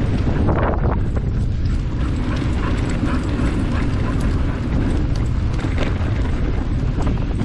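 Wind buffeting the microphone while moving along a trail: a steady low rumble with a few short crunching noises.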